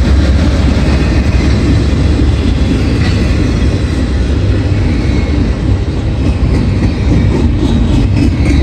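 Double-stack intermodal freight train's container cars rolling past: a loud, steady rumble of steel wheels on rail, with a few sharper wheel clicks near the end.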